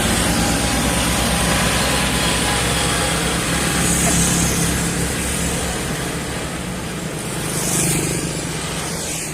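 Heavy diesel road traffic going by: a steady engine drone with tyre noise, swelling as a vehicle passes close about eight seconds in.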